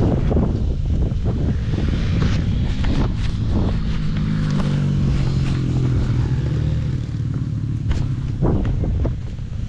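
KTM 65 dirt bike's small two-stroke engine running under way, its pitch steadying and easing slightly around the middle. Several sharp knocks come through, clearest near the end.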